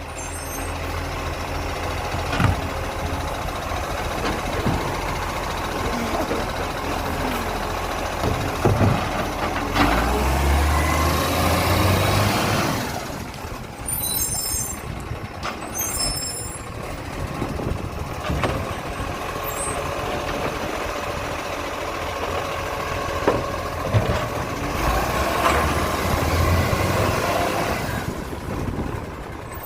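Garbage truck's diesel engine running and revving up twice, about ten seconds in and again near the end, with short hisses of air from the brakes around the middle.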